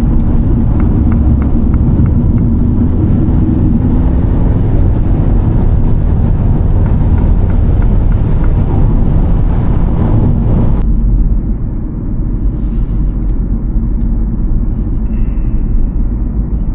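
Car driving at road speed: a loud, steady rumble of road and engine noise. The higher hiss cuts away suddenly about eleven seconds in, leaving a quieter low rumble.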